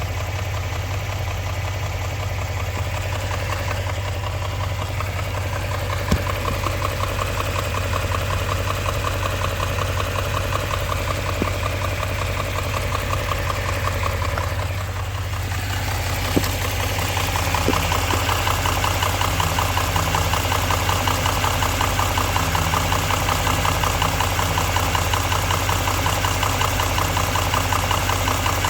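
Engine idling with a fast, steady, rhythmic knock. The sound dips briefly about halfway through, then runs a little louder, with a few single clicks along the way.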